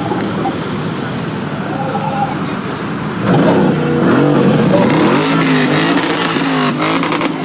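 Modified car's engine revving, the pitch climbing and falling several times, loudest from about three seconds in, over the lower running of other car engines.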